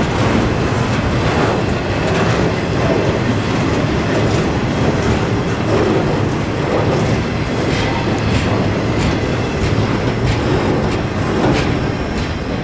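Intermodal freight cars carrying semi-trailers rolling past: a steady rumble of steel wheels on rail, with sharp clacks every second or two as the wheelsets cross rail joints.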